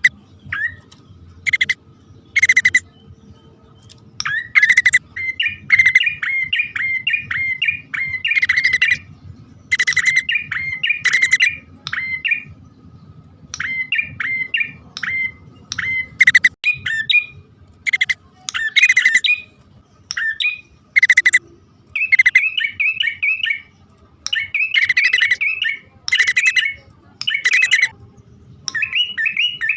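Prenjak (prinia) calls, male and female, played as a bird-lure recording: repeated bursts of quick chirping trills mixed with loud harsh chattering notes, each phrase about a second long with short gaps between.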